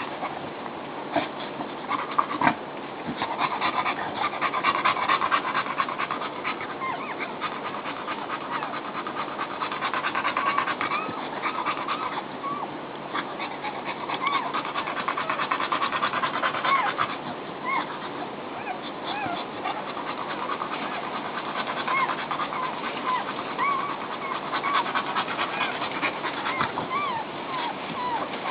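Newborn puppies squeaking and whimpering in many short, high cries, with a dog panting rapidly through much of it.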